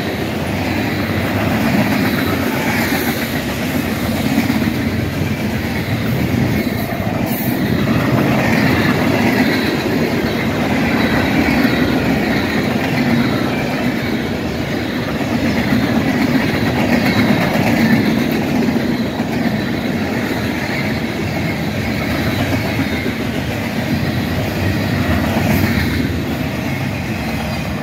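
Freight cars rolling past close by: a loud, steady noise of steel wheels running over the rails.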